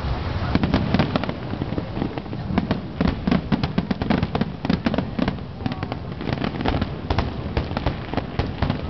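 Fireworks finale: aerial shells bursting in quick succession, a dense run of overlapping bangs and crackles.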